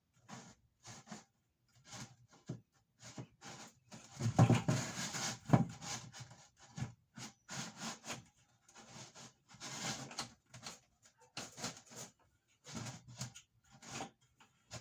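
Handling noises as plumbing parts and a water jug are shifted and fitted into a cabinet: irregular knocks, clunks and scraping, busiest and loudest about four to six seconds in.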